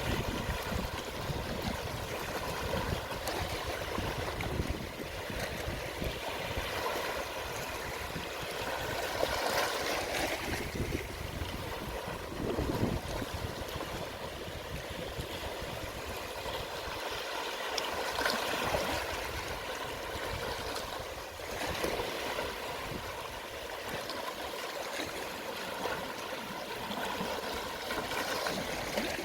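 Gentle sea waves washing and trickling over the shore at low tide: a continuous wash that swells louder a few times as waves come in and drain back.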